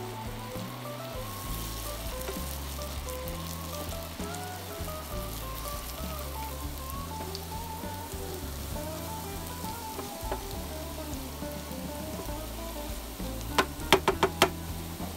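Sliced button mushrooms sizzling steadily as they fry in oil in a nonstick pan, stirred with a wooden spatula. Near the end come about five quick, sharp knocks, the wooden spatula striking the pan.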